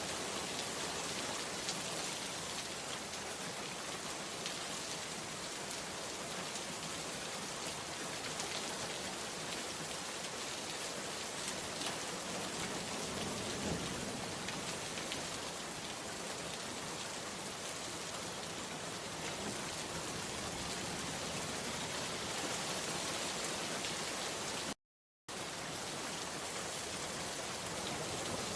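Steady rain, a dense even patter of drops hitting a surface. About 25 seconds in, the sound cuts out completely for about half a second, then resumes.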